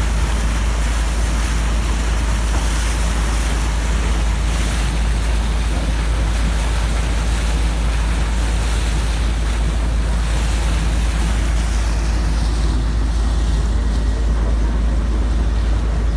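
Taxi boat under way: a steady engine drone with rushing water and wind buffeting the microphone.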